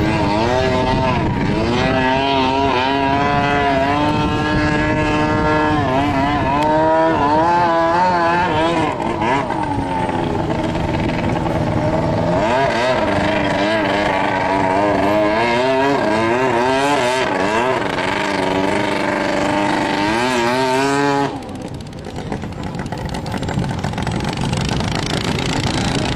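Two-stroke racing boat engine running loud, its pitch holding steady for a few seconds and then rising and falling again and again. About 21 seconds in, the engine note cuts off abruptly, leaving a noisier rush that slowly builds.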